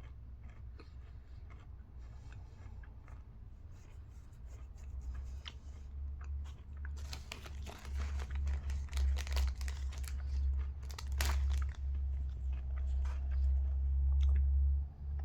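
Chewing a milk chocolate bar with crunchy waffle cone pieces: crisp crunches, sparse at first and then denser and louder from about halfway, over a low rumble.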